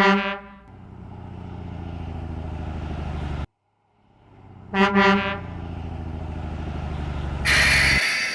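Truck sound effects: a horn honks twice, then the truck's engine runs and grows steadily louder until it cuts off abruptly. After a short silence the double honk and building engine come again, ending in a brief loud hiss.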